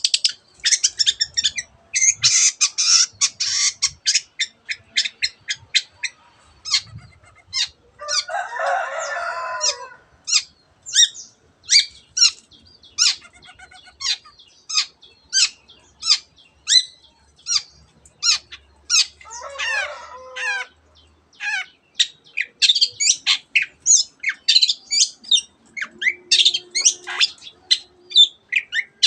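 Long-tailed shrike (cendet) singing a fast run of short, sharp chirps and trills packed with mimicked phrases of canary and other birds, twice broken by a harsh, rasping call lasting a second or two.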